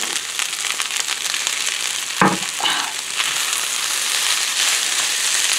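Fried rice with mushrooms, onions and peas sizzling steadily in a frying pan, stirred through with a utensil in the second half.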